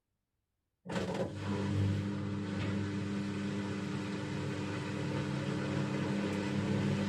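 Bosch Avantixx 6 washing machine running, a steady mechanical hum with whirring noise over it, starting suddenly about a second in.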